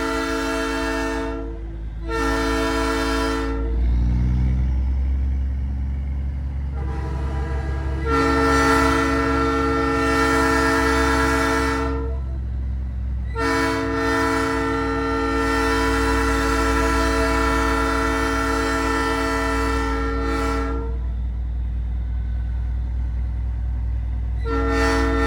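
Nathan Airchime P3 chime train horn on a big rig blowing a chord in repeated blasts: a short one early, two long ones of about five and seven seconds in the middle, and another starting near the end. A steady low truck-engine rumble runs underneath.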